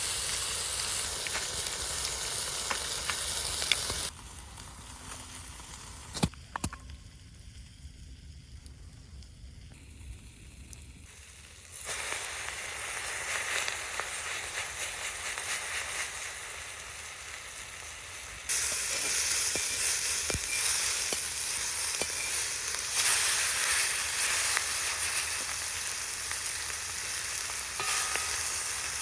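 Meat sizzling over an open campfire, a steady frying hiss. It comes in several cut-together stretches, quieter for a while near the middle with a few sharp clicks.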